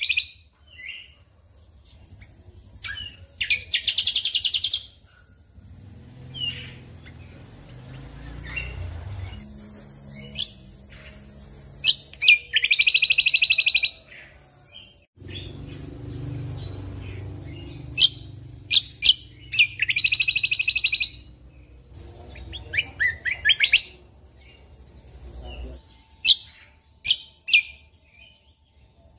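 Cucak kombo (kecial kombok) songbird singing: sharp chirps and repeated fast trilled bursts of a second or two each, the loudest about 4, 13 and 20 seconds in.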